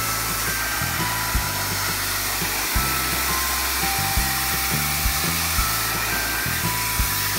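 Sun Joe SPX3000 electric pressure washer spraying water onto wicker, a steady hiss, under background music with a bass line and a beat.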